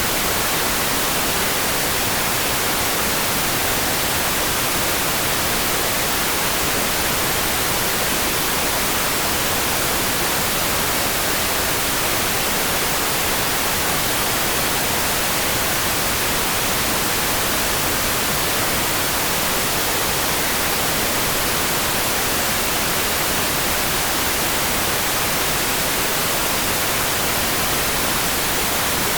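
Steady rain falling, an even, unbroken hiss weighted toward the high end, with no separate drops or other sounds standing out.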